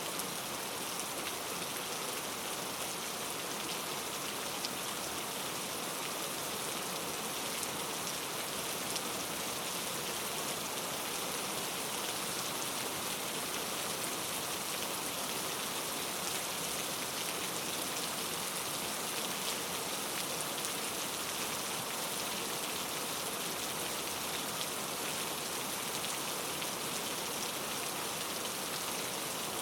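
Steady rainfall, a constant even hiss of rain with fine individual drop taps scattered through it.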